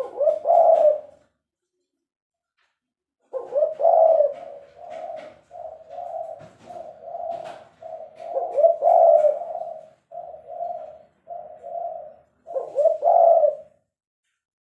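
Spotted dove (tekukur) cooing: a short phrase at the start, then after a pause of about two seconds a long run of repeated coos, and one more phrase near the end.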